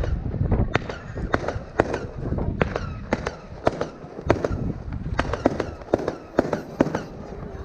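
Consumer firework batteries (cakes) firing: an irregular rapid series of sharp bangs and crackles, several a second, over a low rumble that is heaviest at the start.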